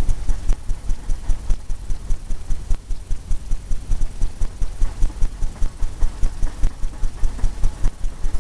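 Paintbrush tapping paint onto a stretched canvas in quick, even strokes, about four to five taps a second, each tap a dull thud from the taut canvas.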